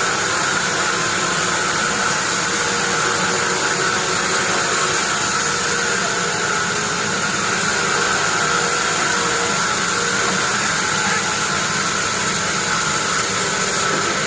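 Band sawmill machine running steadily: a constant high whine over a steady machine noise, with no pauses.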